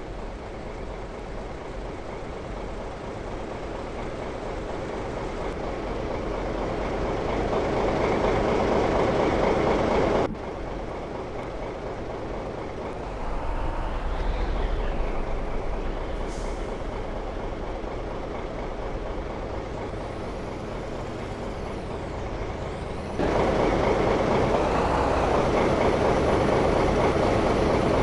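A large engine running with a dense, steady mechanical noise. It grows louder, drops off abruptly about ten seconds in, and comes back loud again after about twenty-three seconds.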